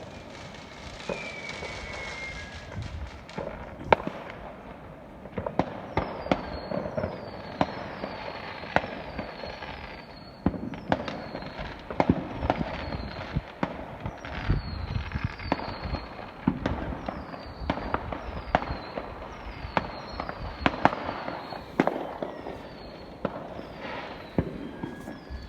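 Fireworks going off with many sharp bangs. From about five seconds in, the bangs come at an even pace, roughly one every 0.7 seconds, each with a short falling whistle.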